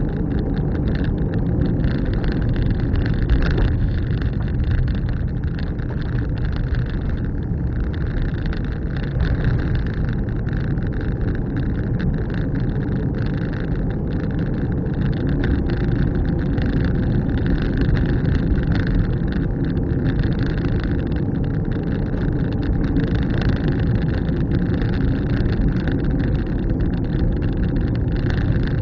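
A car driving steadily along a road: an even engine and tyre noise.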